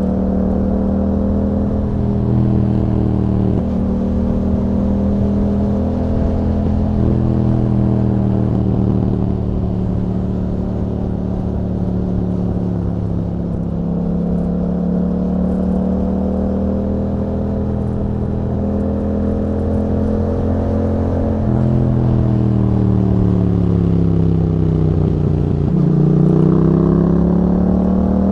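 2021 Yamaha MT-07's 689 cc parallel-twin engine through an Akrapovic exhaust fitted with a YAHOM dB killer, under way on the road. The revs climb and fall again and again, with several sudden drops in pitch where the rider shifts, and a dip and rise near the end.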